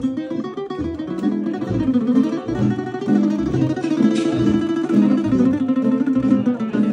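A tamburica band playing an instrumental passage: a fast plucked melody on small mandolin-like tamburicas over a steady plucked bass.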